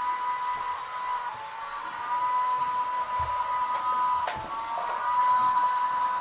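Battery-operated toy car's small electric motor whirring steadily, its pitch dipping briefly twice, with a sharp click about four seconds in.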